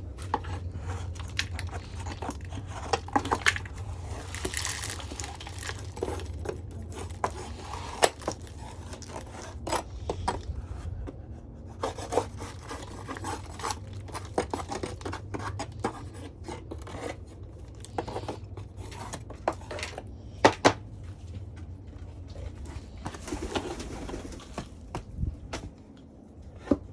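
Scraping and rubbing with frequent sharp clicks and knocks as a hand tool cleans out a pigeon cage, over a steady low hum.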